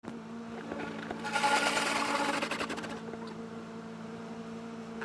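Car wash machinery running with a steady motor hum; a louder, rapid rattling rush rises over it from about one to three seconds in.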